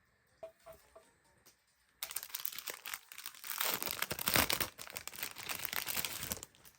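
Parcel packaging being unwrapped by hand: a few light clicks, then dense crinkling and tearing from about two seconds in that stops shortly before the end.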